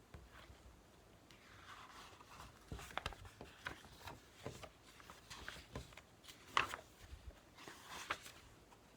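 Faint, irregular small clicks and rustling of objects being handled close by, busiest in the middle.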